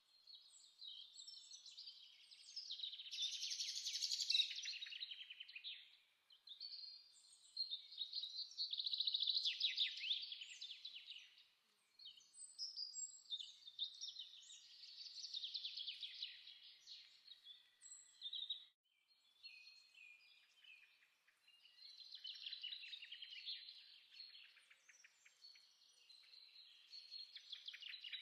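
Birds singing faintly: trilled phrases a few seconds long with short pauses between them.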